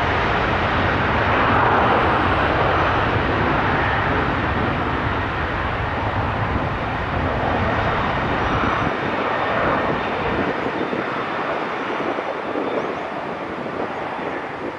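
Airbus A321 jet airliner's engines at takeoff power, a broad rumbling roar that fades as the aircraft climbs away; the deep low rumble drops out about two-thirds of the way through.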